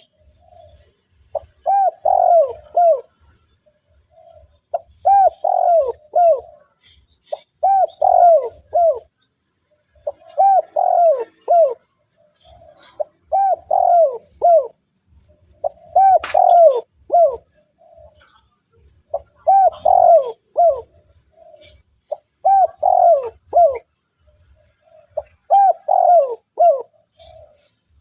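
Spotted dove cooing over and over, a phrase of three or four coos about every three seconds. Small birds chirp faintly in the background, and there is one sharp click about halfway through.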